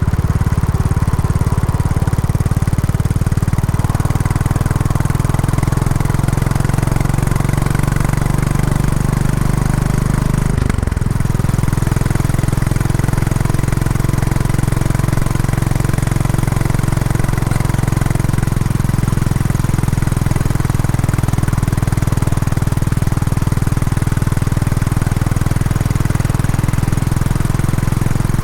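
Royal Enfield Classic 350's single-cylinder engine running steadily through its stock exhaust while being run in. About eleven seconds in the engine note breaks briefly and settles at a different pitch.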